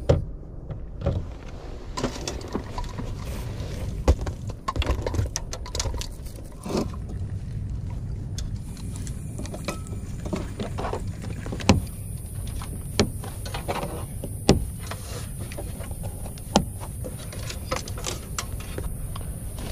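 Strong wind rumbling on the microphone, with irregular clicks and knocks of things being handled close by.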